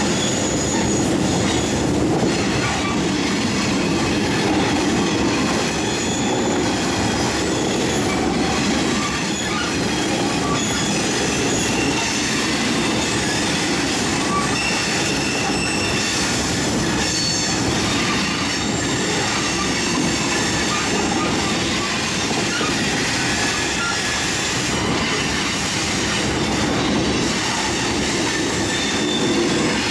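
Railroad cars rolling past at close range, a steady rumble of steel wheels on rail, with high-pitched wheel squeals coming and going throughout.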